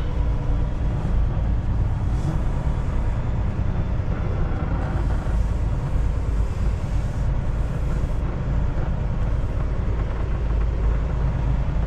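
Kenworth T680 semi truck's diesel engine running with a steady low rumble, heard from inside the cab as the loaded tractor-trailer creeps out of a lot at low speed.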